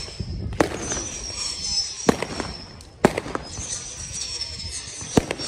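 Fireworks going off: several sharp bangs a second or so apart, with high whistles of rockets that drift slightly downward in pitch between the explosions.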